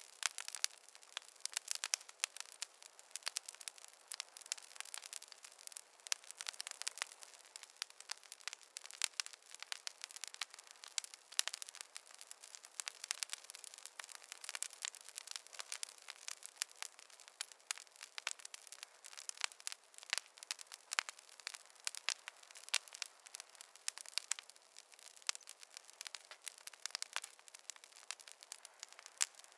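Campfire crackling: a dense, irregular run of small sharp pops and snaps.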